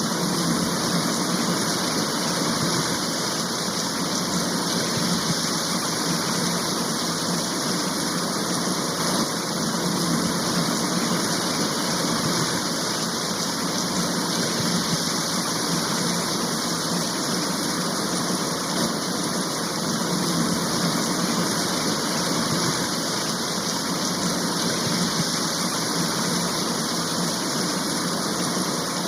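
Heavy rain shower falling in a steady, unbroken hiss.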